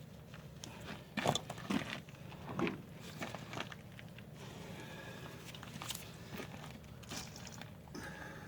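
Hand tools scraping and knocking on rusted brake parts, the stuck shoes and shims: a handful of short, sudden scrapes and clinks at uneven intervals over a faint steady hum.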